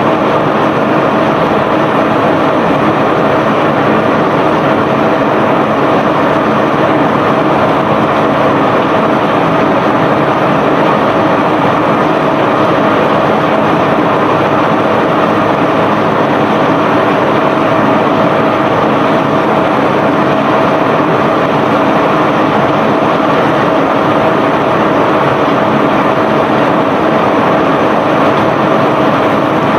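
Self-unloading barge's unloading machinery running steadily: a constant loud mechanical rumble and rush with a steady whine through it.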